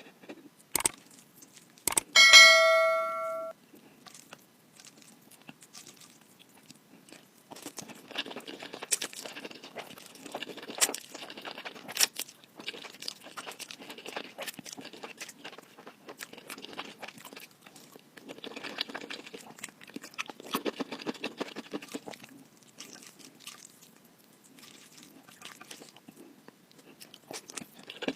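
Close-up chewing and crunching of chocolate-coated ice cream bites, with sharp clicks as they are bitten. About two seconds in, a short ringing tone with several overtones sounds briefly.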